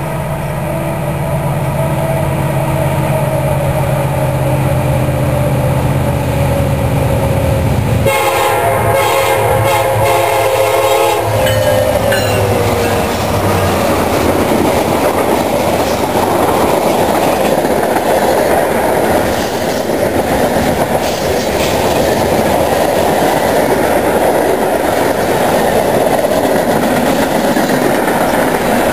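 Diesel freight locomotives, a CSX unit leading and a Union Pacific unit trailing, running in close as they approach, with a horn sounding about eight seconds in whose pitch drops as the locomotives pass. Then the steady rumble and clickety-clack of freight cars rolling by.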